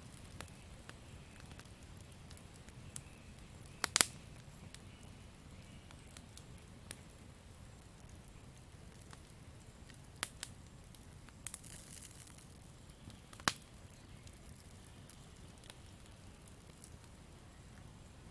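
Campfire crackling: a low steady rush of burning wood with scattered sharp pops, the loudest about four seconds in and a few more between ten and fourteen seconds.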